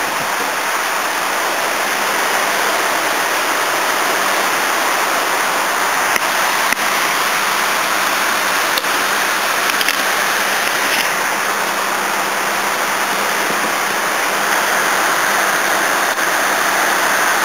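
Heavy rain falling steadily in a constant even rush, with a few light clicks in the middle.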